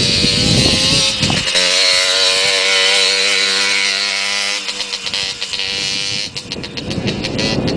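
Motocross dirt bike engine running at high revs, its pitch wavering, fading away about five seconds in. Wind buffets the microphone at the start and near the end.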